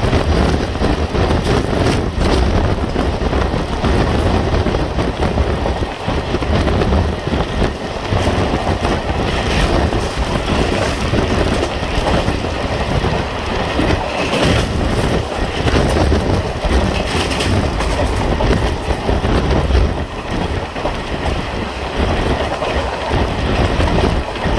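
Indian Railways passenger coach running at speed: steel wheels clattering over the rails, under a steady rush of running noise.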